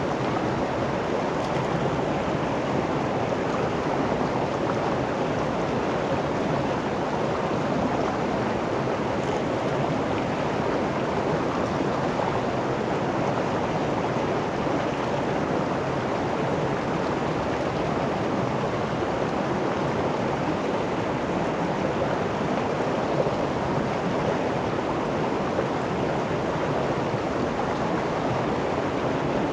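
River flowing, a steady, even rush of water with no breaks or changes.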